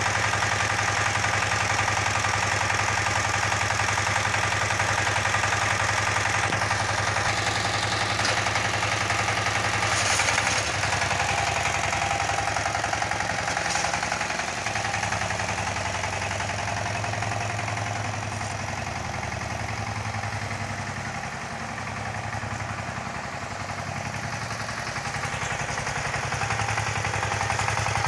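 Walking tractor engine running steadily, dipping slightly in loudness about twenty seconds in and rising again near the end.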